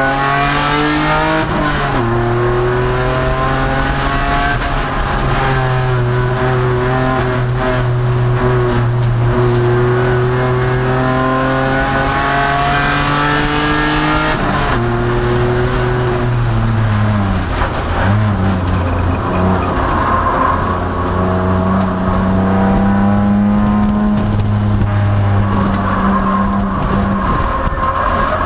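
2002 Nissan Maxima race car's V6 engine heard from inside the car at full race pace, its pitch climbing steadily through a long stretch of track, then dropping sharply about halfway and falling again as the car slows for a corner. Tyres squeal faintly twice through the later corners.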